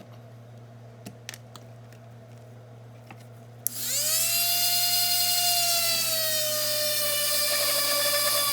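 A few light clicks, then about four seconds in a Dremel rotary tool switches on and spins up to a loud, high whine, its pitch sagging slightly as it bores a hole through the dog door flap material.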